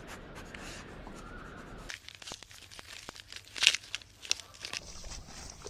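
Rustling and crinkling, with a run of small sharp crackles and clicks starting about two seconds in, loudest a little past halfway.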